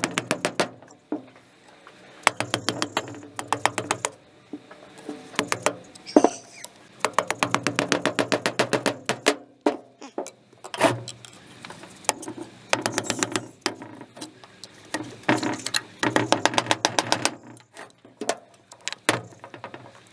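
Hand ratchet wrench clicking in quick, even bursts as bolts on the pump are backed out, with a few heavier knocks of tools or metal parts in between.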